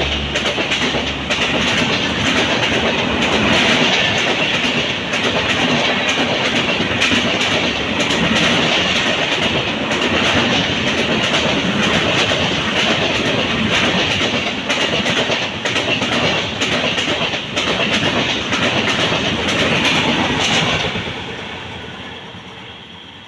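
Indian Railways express train passing at speed, a loud steady rush with rapid wheel clatter over the rail joints; the sound falls away quickly about 21 seconds in.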